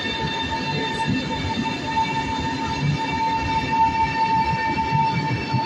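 PKP Intercity Pendolino (ED250) electric train rolling slowly along the platform, with a steady high-pitched whine and its overtones over a low rumble from the train.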